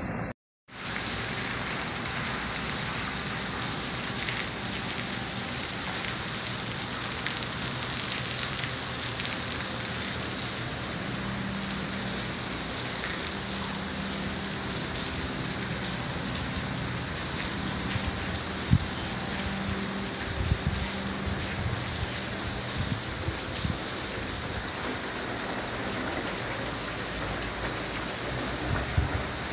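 Steady rain falling, an even hiss of drops on surfaces, with a few faint knocks in the middle.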